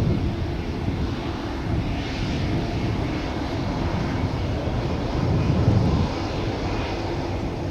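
Jet engine noise from an Embraer E195-E2 with Pratt & Whitney PW1900G geared turbofans during takeoff: a deep, rough rumble that surges briefly about five seconds in and slowly fades.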